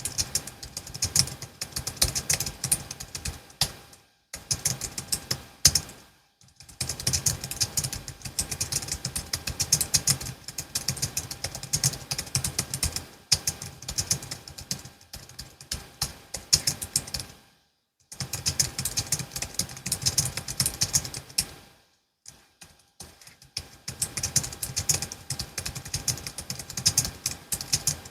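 Fast typing on a Logitech MX Keys S low-profile scissor-switch keyboard: dense, irregular streams of key clicks in runs of several seconds, stopping briefly a few times.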